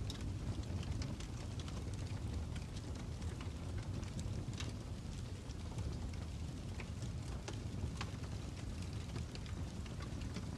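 Wood fire crackling: a steady low rumble with scattered, irregular sharp pops and snaps.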